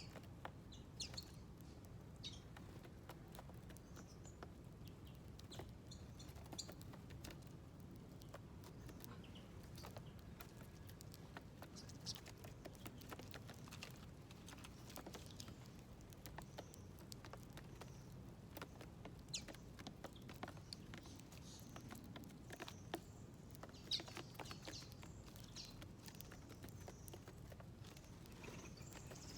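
Small wild birds at a seed feeder, faint: scattered taps and pecks on the feeder with a few brief high chirps, over a steady low background hum.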